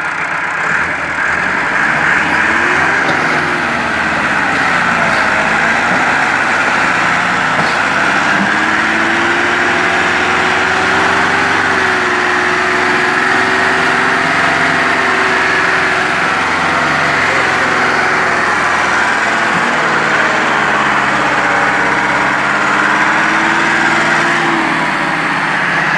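Massey Ferguson 385 tractors' diesel engines working hard under load, pulling a heavy sugarcane-loaded trolley. The engine note rises and falls briefly a few seconds in, then climbs and holds high for most of the time with small dips in revs.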